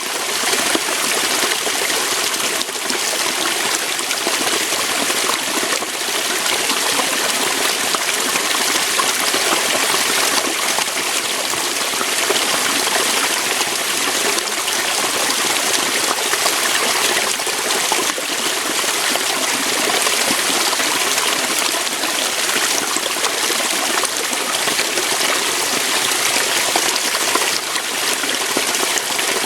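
Waterfall: water pouring and splashing over rocks in a steady, continuous rush.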